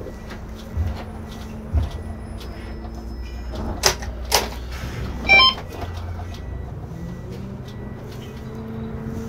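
Irisbus Récréo II coach's diesel engine idling, heard from the driver's cab, with a few low thumps early on, two sharp clicks just before and after four seconds in, and a brief rattling clatter about five seconds in, the loudest moment; the engine note shifts slightly near the end.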